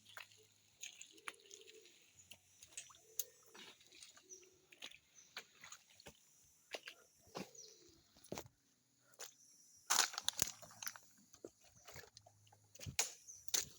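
Close, intermittent rustling and crackling of leaves and twigs, with the loudest burst about ten seconds in. A few short, low coo-like calls sound in the first five seconds.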